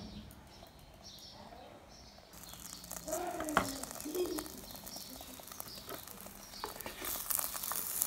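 Egg omelette with shredded cabbage and carrot frying in an electric pot's nonstick pan: a sizzle sets in about two seconds in, with sharp clicks of metal tongs against the pan. Birds chirp in the background at the start.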